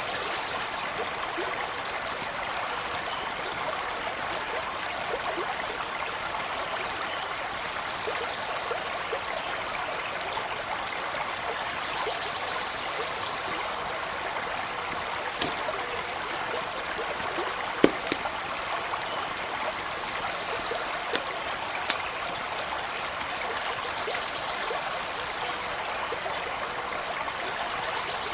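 Stream running steadily, a constant rush of flowing water, with scattered sharp pops and snaps of a crackling campfire, a few louder ones around the middle.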